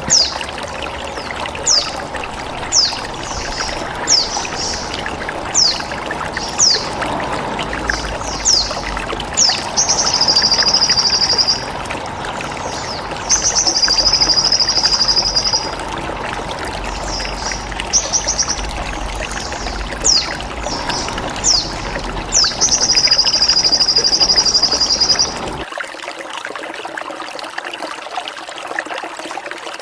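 Songbird calls from a bird-training track: sharp falling chirps about one a second, with three buzzy trills of two to three seconds each, over steady trickling water. The lower water noise drops away near the end while the calls stop.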